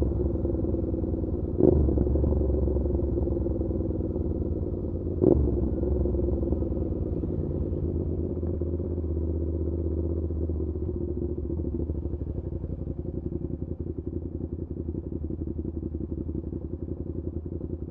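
Suzuki SV650's V-twin through an aftermarket SC Project exhaust, slowing down with engine speed falling. Two short loud blips come about four seconds apart, then the engine settles into a steady, pulsing idle.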